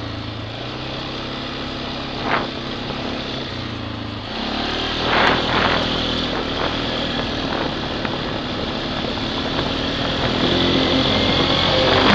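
Four-wheeler (ATV) engine running while riding, its note shifting about four seconds in and growing louder toward the end.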